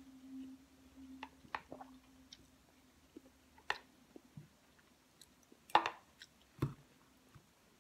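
A person chewing a mouthful of rice and kare-kare close to the microphone, with scattered wet mouth clicks and smacks. The loudest sound is a sharp crackling click just before six seconds, followed by a dull knock.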